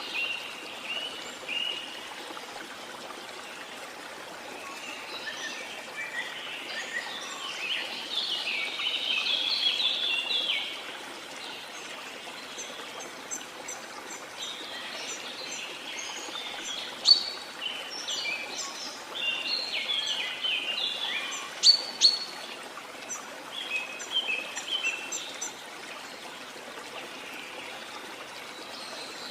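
Rainforest ambience: a steady hiss of falling rain and running water under a chorus of many birds chirping and calling, with busy bursts of song a quarter of the way in and through the middle, and a few sharp, loud chirps past the halfway point.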